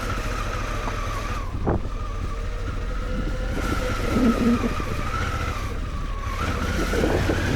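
Adventure motorcycle engine running steadily while riding, with a continuous whine and low rumble that hold even throughout.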